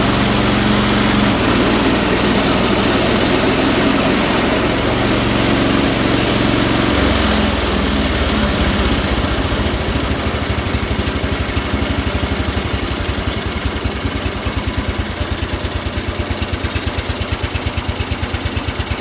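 Single-cylinder engine of an IH Cub Cadet 1000 garden tractor running steadily. About seven seconds in it drops to a lower speed and settles into a slow idle, its firing pulses becoming distinct.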